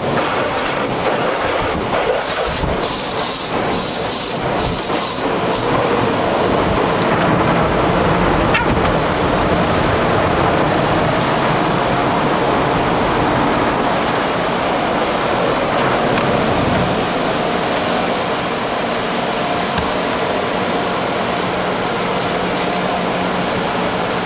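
Automatic car wash heard from inside the car: a continuous loud rush of water and wash machinery against the body. It is broken by irregular sharp spraying hits for the first several seconds, and a steady hum joins in during the last third.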